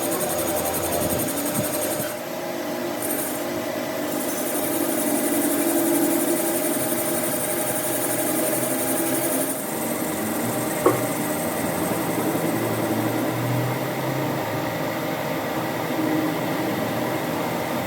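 A workshop machine running steadily, with a single sharp click about eleven seconds in.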